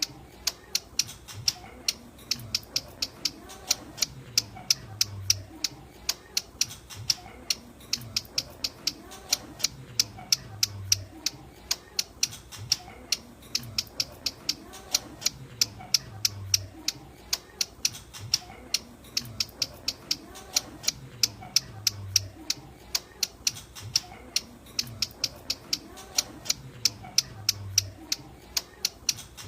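Ciblek gunung (a prinia) calling: a long, unbroken run of sharp, high ticking notes, several a second, the kind of call used to lure the bird. A faint low pulse comes in about every five and a half seconds.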